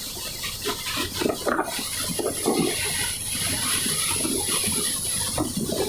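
Steady rushing, splashing noise of heavy rain and strong wind, with a high hiss that sets in under two seconds in.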